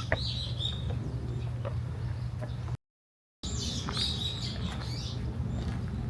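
Small birds chirping in short high bursts over a steady low hum. The sound drops out completely for about half a second near the middle.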